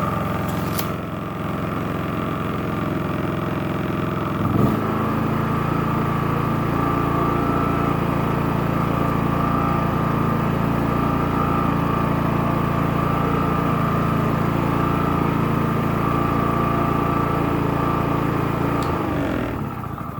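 Champion 4650 inverter generator's single-cylinder gasoline engine running steadily in a concrete garage. About four and a half seconds in there is a click, after which it settles at a higher, steady speed with eco mode switched off. Near the end the engine winds down and stops.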